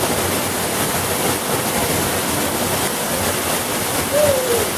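Waterfall pouring down: a steady, loud rush of falling water.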